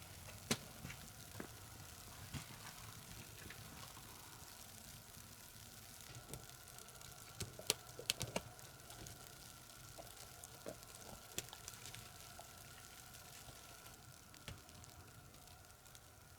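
Wood fire crackling and sizzling: irregular sharp pops over a low steady hiss, with a quick cluster of pops about halfway through.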